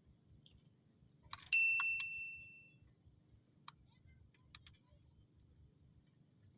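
A small bell, of the kind clipped to a fishing rod tip as a bite alarm, rattles and then rings once with a clear ding about one and a half seconds in. The ding dies away over about a second and is followed by a few faint ticks. The ringing signals a fish tugging at the line.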